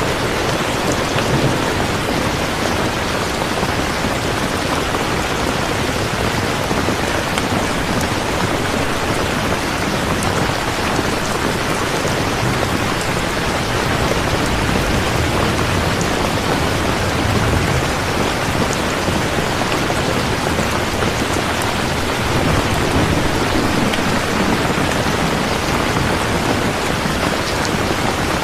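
Steady heavy rain, an even hiss of drops falling on surfaces. A deeper low rumble swells slightly a little past the middle and again later on.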